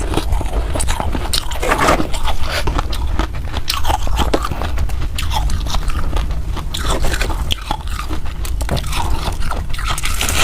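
Freezer ice being bitten and chewed close to the microphone: a steady run of sharp, irregular crunches and cracks.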